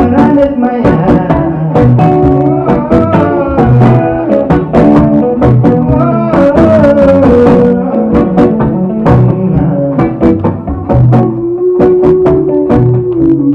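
Instrumental passage of a reggae-folk song: guitar plucked in a steady rhythm over bass.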